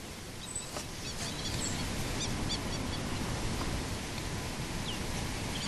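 Outdoor bush ambience: a steady rushing background noise with a few faint bird chirps and short whistles, clustered about two to three seconds in.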